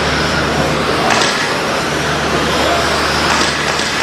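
Radio-controlled stock short-course trucks racing round the track: a steady hiss of motors and tyres, with a constant low hum underneath and a couple of brief louder passes.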